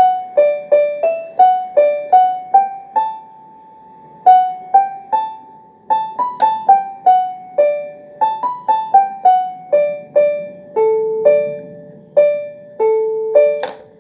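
Electronic keyboard in a piano voice playing a simple melody one note at a time, about two to three notes a second with a longer held note a few seconds in. A sharp click comes just before the end.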